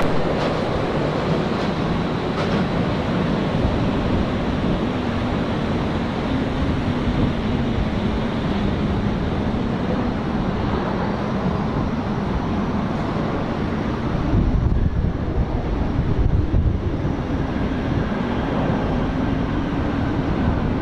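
Jet engines of a departing Airbus A330 Voyager tanker, a steady broad rumble with a low drone, swelling with deeper rumble about fourteen seconds in.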